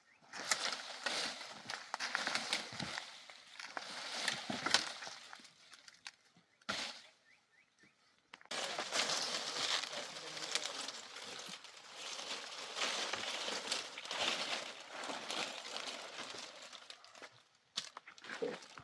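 Irregular rustling and crunching noise, like handling or walking through dry material, with a pause of about two seconds partway through.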